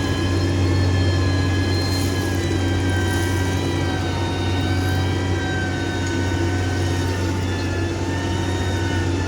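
Heavy road-building machine's engine running steadily under load, a low drone with a high whine over it that sags slightly in pitch about six seconds in.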